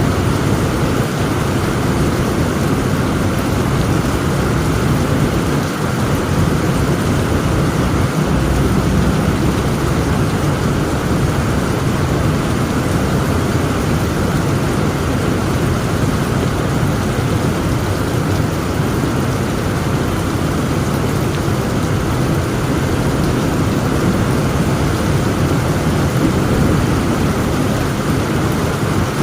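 Heavy rain falling steadily, with a deep, continuous rumble of thunder underneath.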